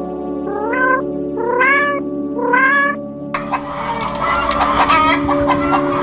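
A cat meows three times, each call rising in pitch. About three seconds in, the sound switches to a flock of chickens clucking.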